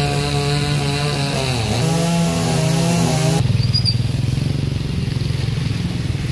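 Small petrol engine running, its pitch rising and falling. About three and a half seconds in, the sound switches abruptly to a steadier, lower engine drone.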